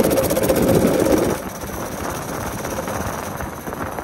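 Baja Warrior minibike's small single-cylinder engine running hard, then dropping back sharply about a second in as it comes off the throttle or moves away. It keeps running more quietly after that.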